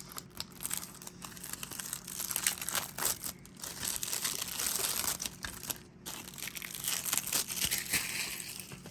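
Plastic wrapping on a DVD case being torn and crinkled off, an uneven run of crackles with sharp clicks.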